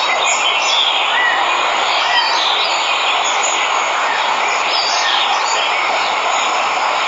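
Steady rush of a waterfall, with birds chirping and calling over it.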